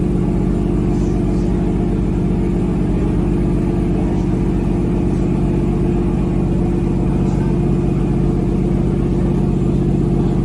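Steady drone of a traditional Amazon riverboat's engine running at a constant speed, heard on board.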